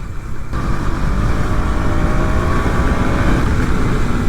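KTM Duke 200's single-cylinder engine pulling as the motorcycle accelerates under way, getting louder about half a second in, with a dense rumble of wind and road noise over it.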